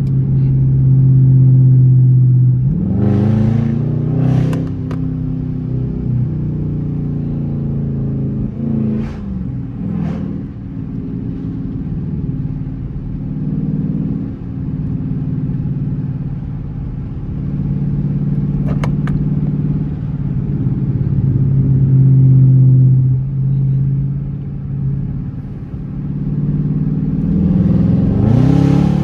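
Dodge Charger R/T's V8 engine heard from the driving seat, running steadily and then pulling hard with climbing revs about three seconds in and again near the end, with smaller pitch shifts in between.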